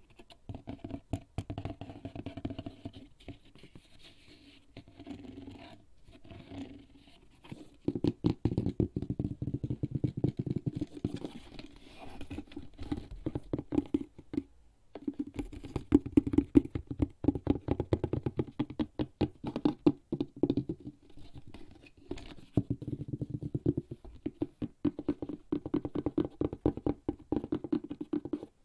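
Fingertips rapidly tapping and scratching on a HERZ leather bag, with quick, dull taps. A few seconds in, there is a softer stretch of scratching.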